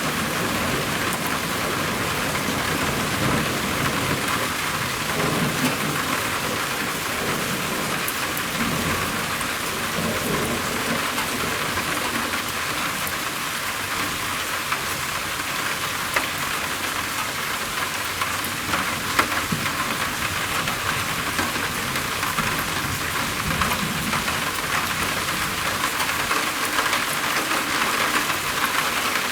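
Steady heavy rain drumming on a roof, a dense hiss full of small drop ticks, with low rumbles of thunder swelling a few seconds in and again near the end.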